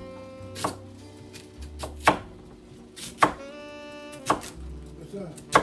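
Background music with held notes, and a knife chopping sweet potato: a sharp knock on the board about once a second, five in all.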